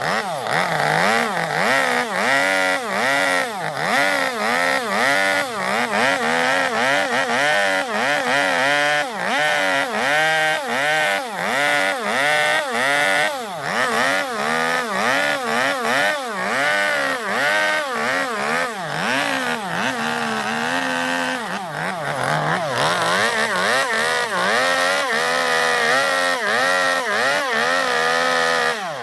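Two-stroke chainsaw cutting into zelkova wood, its engine pitch rising and falling about once a second as the bar bites in and eases off. Toward the end it runs at a steadier, higher pitch.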